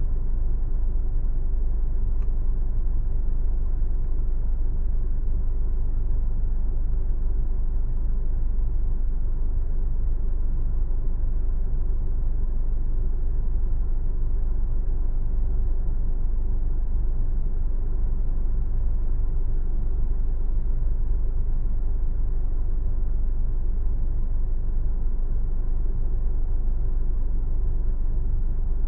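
A car driving, giving a steady low road and tyre rumble with the engine underneath, with a single faint click about two seconds in.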